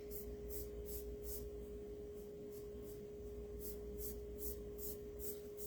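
Foam sponge brush stroking black chalk paint onto a wooden cutting board: soft, faint swishes about two or three a second, pausing for a couple of seconds in the middle, over a steady hum.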